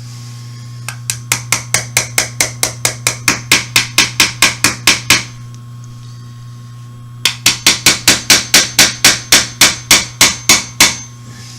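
Rapid light hammer taps driving a roll pin into the frame of a Smith & Wesson M&P 45 pistol: two runs of about five sharp taps a second, separated by a pause of about two seconds. The pin is hard to go in.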